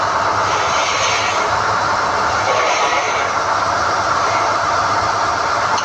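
SDH-1600 core drilling rig running with a steady, even mechanical noise over a low hum.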